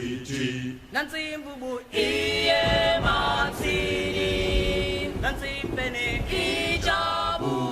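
Soundtrack music of a choir singing held notes, growing louder and fuller from about two seconds in.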